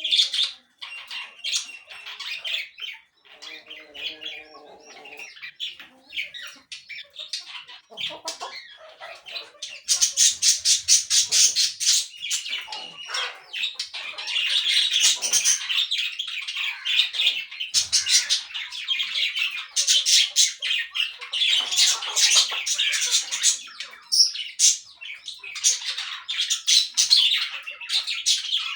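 Caged parakeets chattering, with many rapid high chirps and squawks. The calls are sparse at first, then turn dense and louder about a third of the way in.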